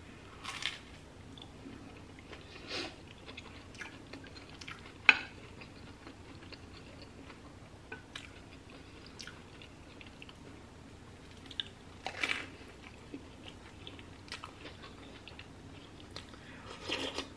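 Close-up eating sounds: biting and chewing a toasted grilled cheese sandwich, with scattered short crunches and mouth clicks, the sharpest about five seconds in.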